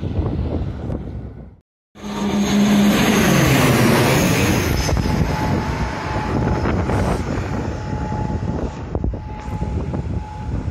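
Jet airliner passing low overhead, loud, with its engine tones falling in pitch as it goes by and a high whine above them, then trailing off. Wind buffets the microphone at first, and the sound cuts out for a moment just before the jet arrives.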